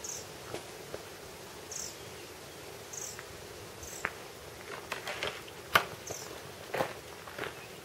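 A small bird chirping outdoors: five short high chirps spaced a second or two apart. Several sharp clicks and knocks fall among them, the loudest one near six seconds in.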